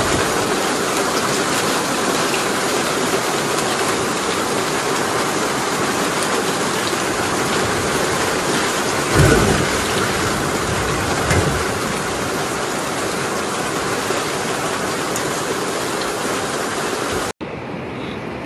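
Steady rushing of water, loud and even, with a low thump about nine seconds in and a smaller one a couple of seconds later. Near the end the sound cuts abruptly to a quieter recording.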